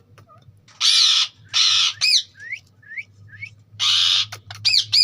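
Green ringneck parakeet giving three loud, harsh squawks, with short whistled chirps that glide in pitch between and after them.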